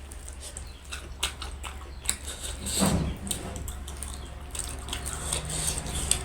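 Close-up wet eating sounds: mouth smacking and chewing with scattered small clicks, and a louder wet slurp about three seconds in.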